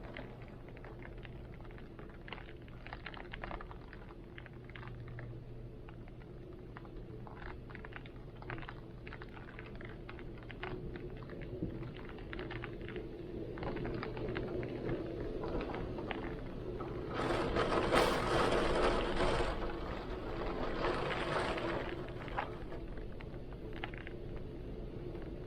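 Rain falling, with many scattered drops ticking sharply, under heavy wind that swells in gusts, strongest a little past halfway and again briefly just after. A faint low steady hum lies beneath.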